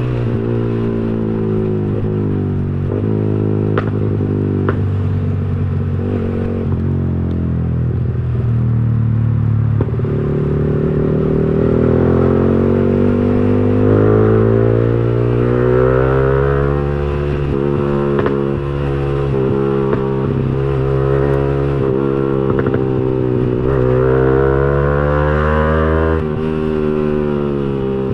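Yamaha R15 V3's single-cylinder engine breathing through a Villan Agusta aftermarket racing exhaust, running under way with its pitch rising and falling again and again as the rider accelerates and eases off.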